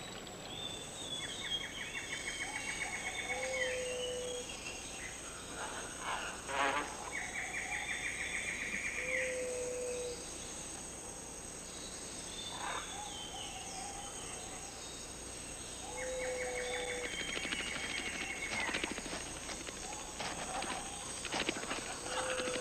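Tropical rainforest ambience with a steady high insect hum. A rapid pulsed trill lasting about two seconds comes three times, and a short low whistled note repeats four times, with scattered small clicks.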